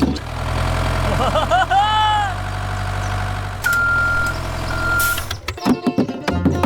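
Heavy vehicle engine running with a steady low hum. A pitched wail rises and falls about two seconds in, and two steady reversing-alarm beeps follow in the middle. Music comes back in near the end.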